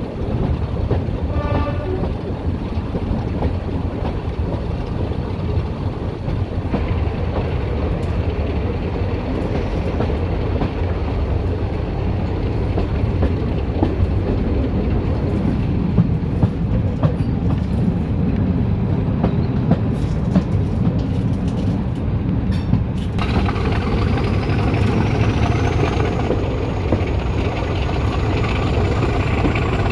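Diesel train running on the line, its engine a steady drone with wheels clicking over the rail joints, and a short high tone about a second and a half in. About 23 s in, the engine grows louder and a thin whine starts, climbing slowly in pitch.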